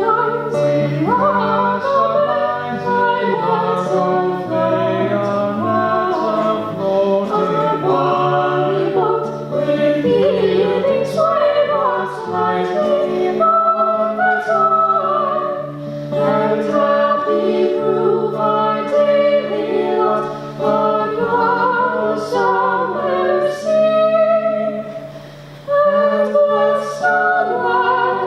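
Several voices singing a slow song in harmony, holding long notes. The sound dips briefly about 25 seconds in.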